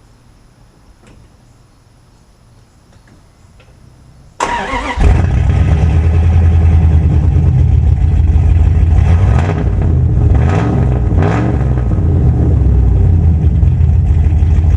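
Dodge Dakota's 318 V8 starting about four seconds in, then running loud through a 3-inch glasspack exhaust with a high-flow catalytic converter, its pitch rising and falling a few times. This loud exhaust note is what the owner calls too loud and annoying.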